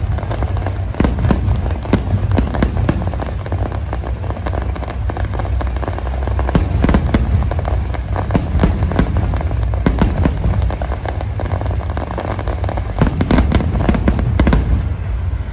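Large fireworks display: a steady run of sharp bangs and crackling shell bursts over a continuous low rumble, with clusters of cracks about one, seven, ten and thirteen to fourteen seconds in.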